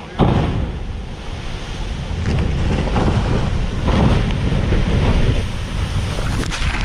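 Loud rushing noise of surging water and wind buffeting the microphone, starting suddenly a moment in and keeping up throughout, heavy in the low rumble.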